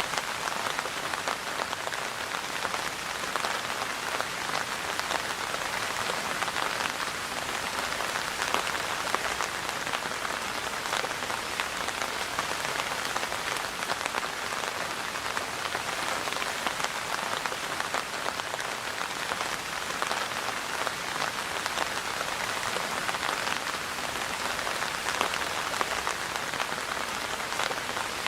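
Steady rain falling, a dense, even patter of many individual drops with no let-up.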